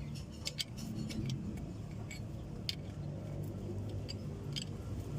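Scattered light metallic clicks and clinks, irregularly spaced, from tools and engine parts being handled during piston installation, over a steady low rumble.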